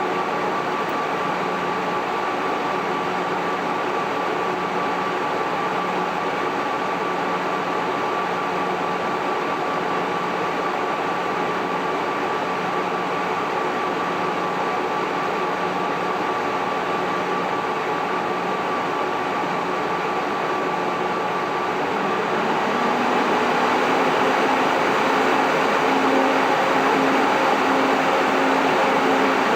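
Cooling fans of an MJ Research PTC-225 Tetrad DNA Engine Peltier thermal cycler running with a steady whoosh and a low pulsing hum. About 22 seconds in the fans speed up: the sound gets louder and the hum steps up in pitch.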